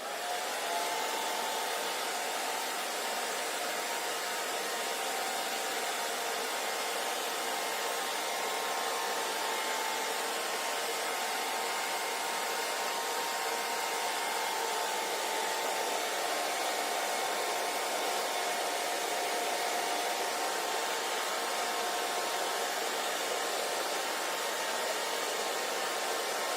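Hair dryer switched on, spinning up in the first half second and then running steadily. It gives an even rush of blown air with a steady motor whine.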